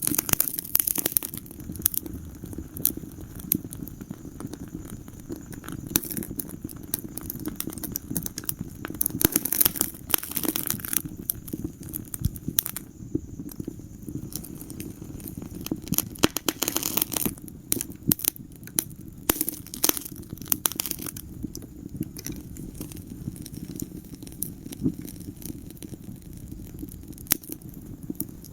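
Wood fire crackling in a fireplace: irregular sharp pops and snaps, in thicker clusters at times, over a steady low rumble of the flames.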